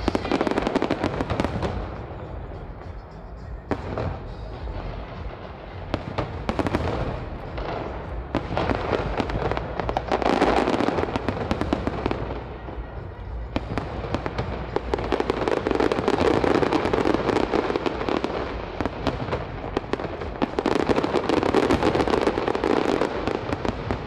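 Fireworks display bursting and crackling densely and without pause, swelling louder several times, around ten seconds in, midway through and near the end.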